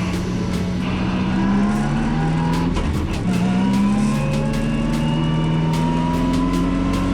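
Twin-turbo 4.4-litre BMW S63B44 V8 in a drift car pulling hard, its note climbing steadily, dropping briefly about three seconds in, then climbing again.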